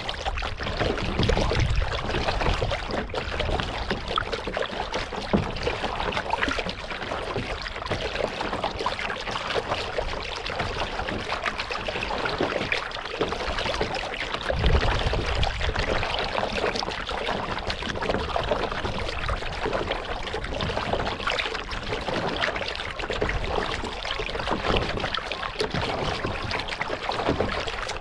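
Kayak paddling: paddle blades dipping and water splashing, trickling and dripping off the paddle and along the hull. A brief low rumble comes about a second in and again near the middle.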